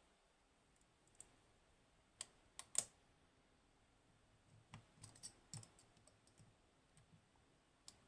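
Faint, scattered clicks of a lock pick and tension wrench working the pins of a Hori Trident high-security lock as a T-spool pin is picked. The loudest click comes about three seconds in, and a small cluster follows around five seconds in.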